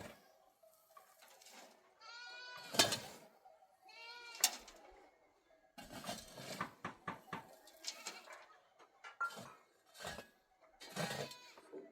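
Goats bleating: a long wavering bleat about two seconds in and another about four seconds in, then a run of shorter calls mixed with small knocks.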